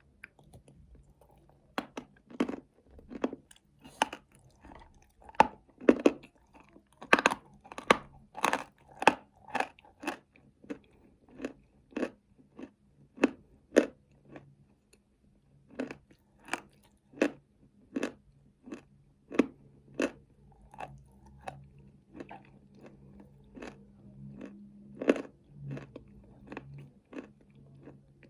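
Close-miked chewing of crunchy nuts coated in chocolate paste: a steady run of crisp crunches, about one or two a second, thinning out toward the end.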